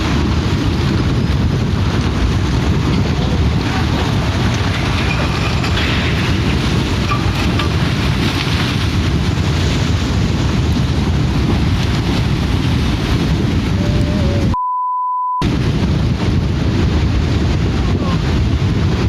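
Loud, steady rushing roar, heaviest in the bass. About fifteen seconds in, it is cut for just under a second by a censor bleep, a single steady beep.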